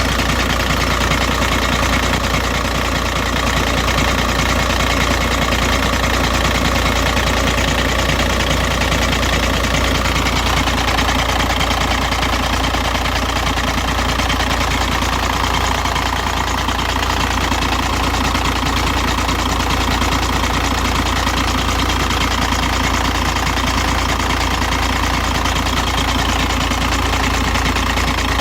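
Volkswagen Jetta 1.9L TDI four-cylinder turbodiesel idling steadily, with a strange noise from the bottom of the engine. The noise goes away once the engine has idled for about five minutes or been driven for two to three minutes. The owner does not know the cause: the oil pump was inspected with the pan off and nothing seemed wrong.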